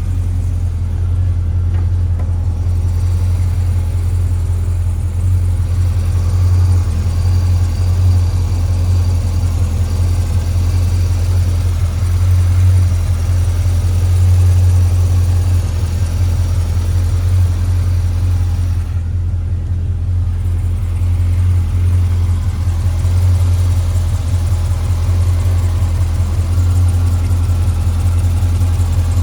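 A 2013 Chevrolet Corvette Grand Sport's 6.2-litre LS3 V8 idling steadily, a low, even drone with no revving.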